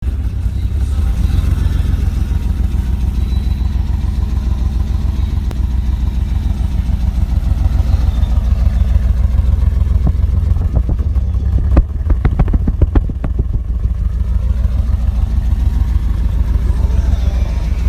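BMW E28's exhaust through a newly fitted muffler, the engine running with a deep, steady low rumble. About two thirds of the way in, a quick cluster of sharp cracks or pops sounds over it.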